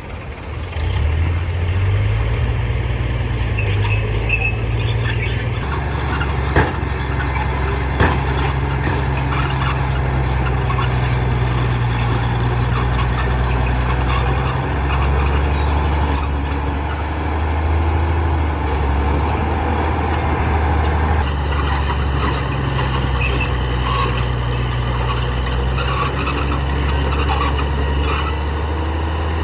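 Heavy diesel machinery engine running hard, its pitch stepping up and down several times, with a high mechanical squeal over it. Two short sharp knocks come about 7 and 8 seconds in.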